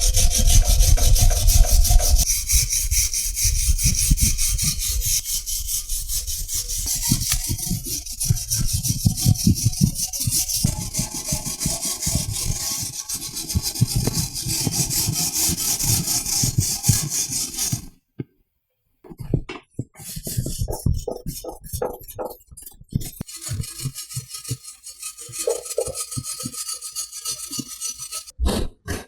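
Steel wire brush worked by hand back and forth over rusty cast iron, scrubbing off surface rust with rapid, repeated scraping strokes. The strokes break off briefly about two-thirds of the way through, then start again, sparser.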